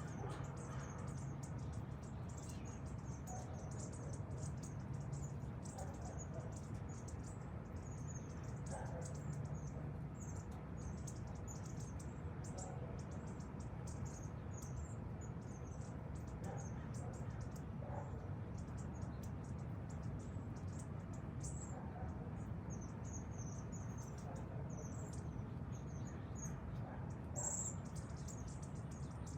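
A flock of small birds chirping softly while foraging: many short, high-pitched chirps throughout, over a steady low rumble.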